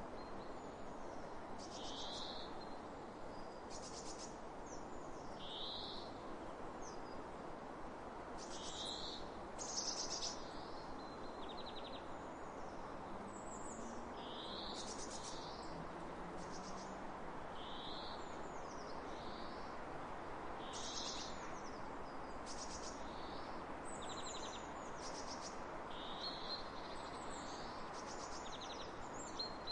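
Songbirds calling throughout, short sweeping chirps and quick trills every second or two, over a steady hiss of wind.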